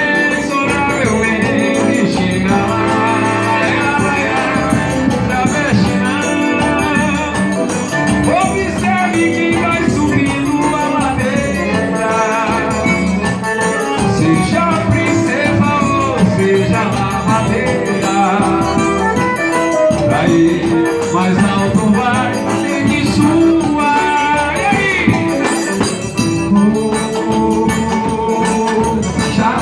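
Live band playing an instrumental passage of a Brazilian song, with shaker-like rattle percussion over a melody and bass.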